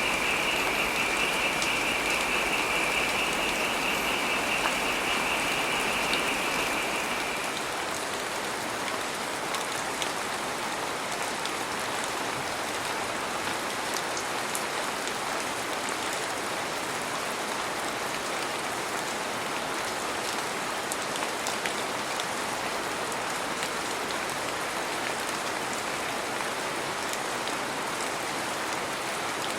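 Heavy rain falling steadily, a constant patter. For about the first seven seconds a high, rapidly pulsing buzz sits over the rain and then stops.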